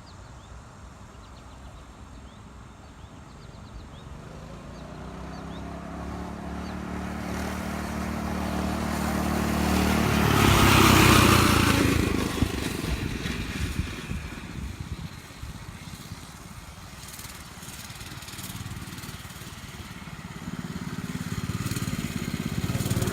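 Mini bike engine getting louder as it approaches, passing close by about eleven seconds in, then fading as it rides away. The engine sound builds again near the end.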